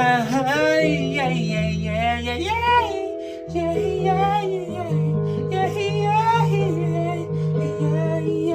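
Wordless vocal exercise sounds that slide and swoop up and down in pitch, made to build resonance, over a steady instrumental backing track with held chords.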